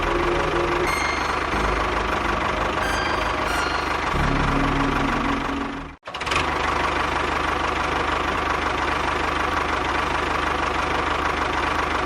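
A small engine running steadily, with a brief dropout about halfway through before it carries on unchanged.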